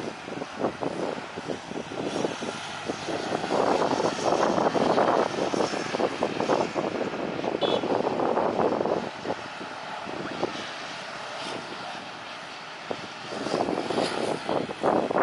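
Jet airliner engines running, the noise swelling strongly for several seconds and again near the end, fluttering unevenly throughout.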